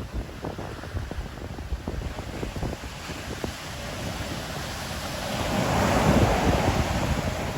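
Sea waves on the shore with wind buffeting the microphone; a wave builds and breaks about six seconds in, the loudest moment, then washes back.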